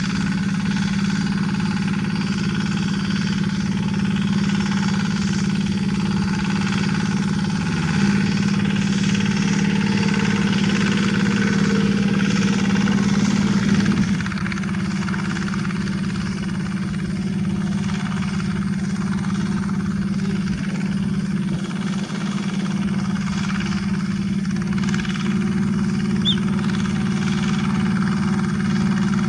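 Diesel engine of a two-wheel rotary hand tractor running steadily. Its pitch rises slightly about eight seconds in and drops back about six seconds later.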